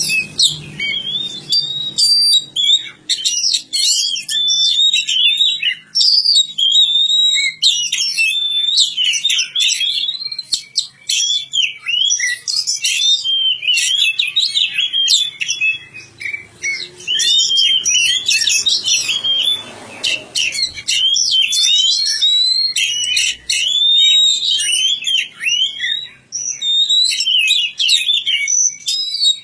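Oriental magpie-robin (kacer) singing a long, fast, varied song of whistled slurs and chirps, with only brief pauses between phrases.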